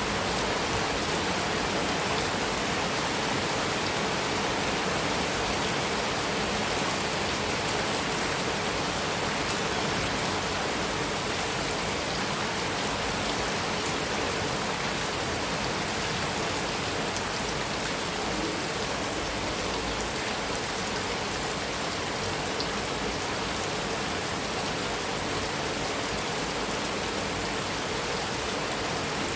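Heavy rain falling steadily on a metal roof: an even, unbroken hiss with scattered drop ticks.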